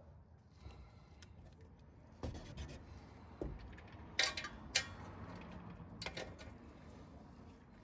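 Torque wrench and socket tightening the exhaust mid-pipe bolts: a few sharp metallic clicks and clinks, the loudest two close together just past the middle.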